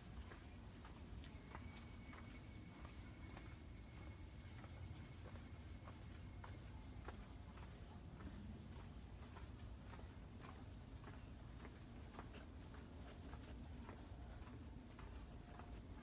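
Summer-night insects chirring in one steady high-pitched drone, with fainter extra tones joining about a second and a half in. Soft footsteps tick along at a walking pace beneath it.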